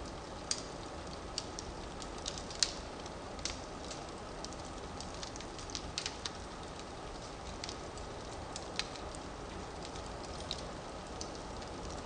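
Firewood burning in a fireplace: a steady soft hiss with irregular sharp crackles and pops, the loudest a little over two and a half seconds in.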